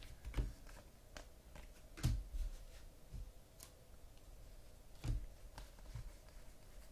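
Trading cards being handled and set down on a table: a scattering of soft clicks and taps, the firmest about two seconds in and again about five seconds in.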